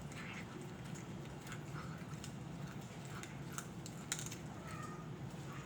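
Cat chewing dry food: scattered small crunching clicks over a steady low hum. A faint meow from another cat comes about five seconds in.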